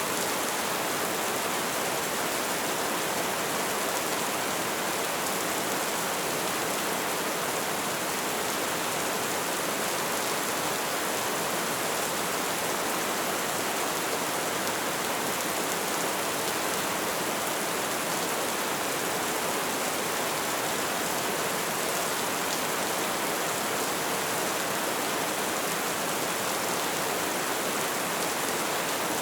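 Light rain falling steadily, an even hiss of drops with no change in level.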